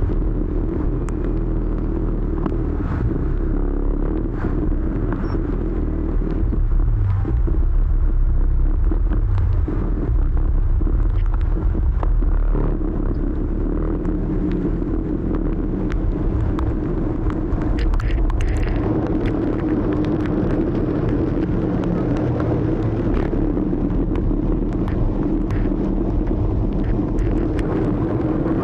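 Motor scooter ride through city traffic: a steady low rumble of engine and road noise, with faint scattered ticks.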